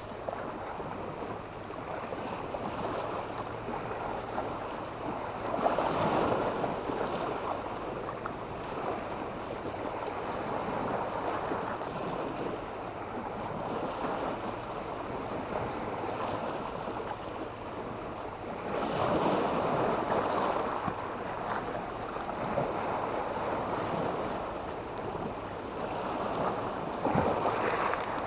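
Sea waves breaking and washing on a beach of sand and black stones, with the surge swelling loudest about six seconds in and again about two-thirds of the way through.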